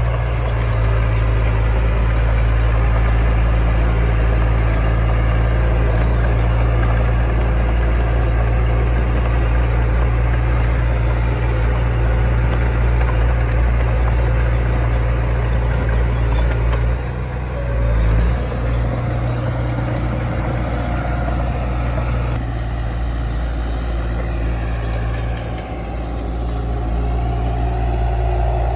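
Heavy diesel engine of earthmoving machinery running steadily, with a brief dip and wobble in its note about seventeen seconds in.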